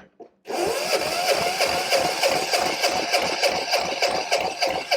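Small air-cooled diesel generator engine being cranked over by its electric starter with an injector line cracked open to check fuel delivery. It runs as a rapid, even pulsing, and the starter's whine rises as it spins up about half a second in.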